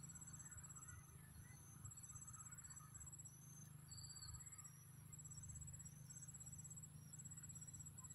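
Faint insect chorus of crickets: a steady high whine with rapid pulsed trills that come in stretches of a second or so, and scattered short high chirps over them.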